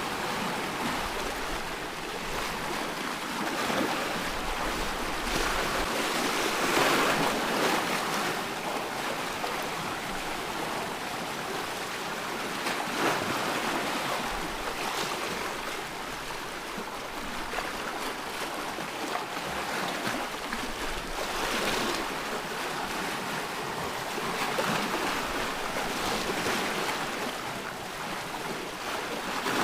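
Ocean waves breaking and washing on a shore, a steady surf hiss that swells and eases every few seconds.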